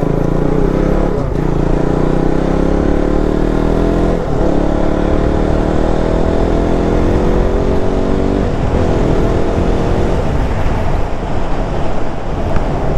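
Motorcycle engine accelerating through the gears: its pitch climbs steadily, and the climb breaks off briefly four times where it shifts up.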